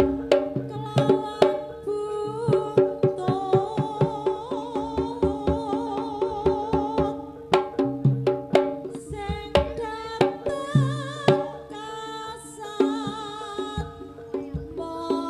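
Live Javanese traditional dance music: a band of hand drums beating a quick rhythm under a held, wavering high melody line and steady pitched accompaniment.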